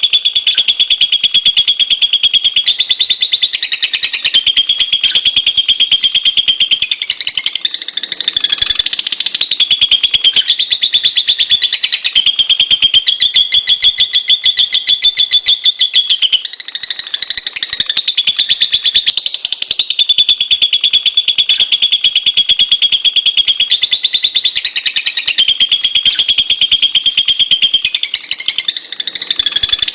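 Lovebird chattering in a fast, unbroken high-pitched trill, its pitch stepping up and down between phrases, with a brief pause just past halfway.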